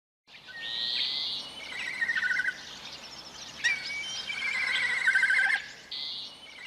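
A bird of prey calling: high whistled notes and falling trills, repeated several times over a faint outdoor hiss.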